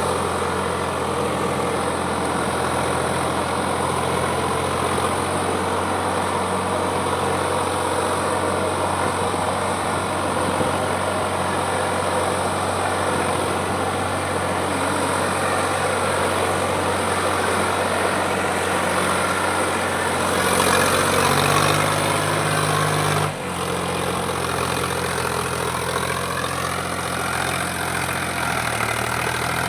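Sonalika 745 DI tractor's diesel engine running steadily while pulling a trolley loaded with crushed stone. About 20 seconds in it runs faster and louder, then the sound breaks off abruptly and resumes at a slightly lower, steady pitch.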